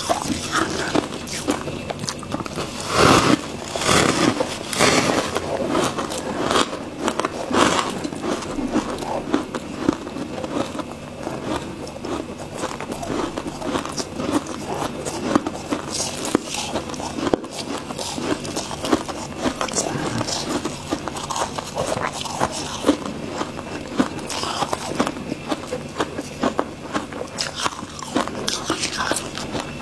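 Freezer frost being bitten and chewed close up: a dense, irregular run of crisp crunches, with a few louder bites a few seconds in.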